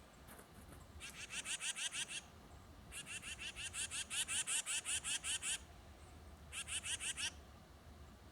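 A bird giving rapid chattering calls: three runs of quick, evenly repeated harsh notes, about eight a second, the middle run the longest and loudest.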